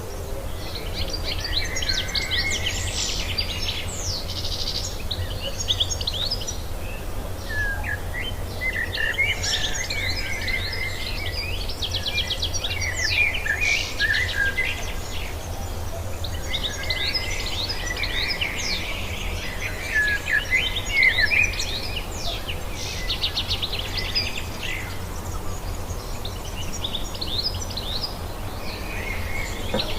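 Wild songbird singing in long bouts of quick, varied chirps and warbles, with short pauses between bouts, over a steady low hum.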